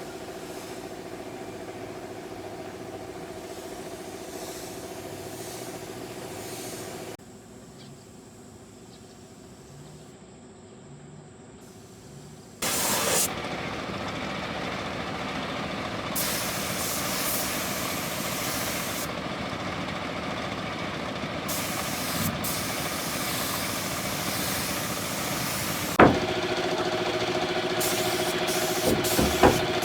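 A car engine idling steadily. Its level jumps up and down abruptly a couple of times, and a single sharp knock sounds near the end, followed by a few lighter clicks.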